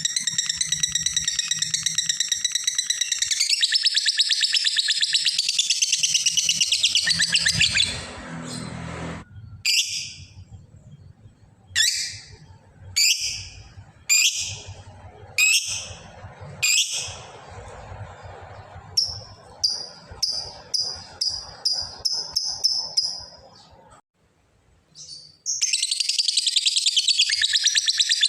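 Lovebird 'ngekek': a long, very fast high chattering trill. It breaks off and gives way to single sharp chirps about a second apart, then a quicker run of short notes. After a short pause the long trill starts again near the end.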